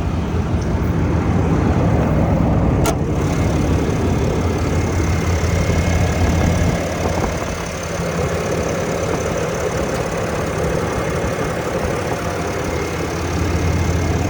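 Ram 3500 pickup's engine idling steadily, with a single sharp click about three seconds in.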